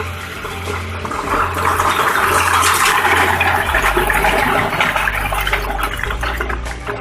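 Massey Ferguson 265 tractor running with a low steady hum under a loud rushing noise that swells about a second in and eases after about four seconds.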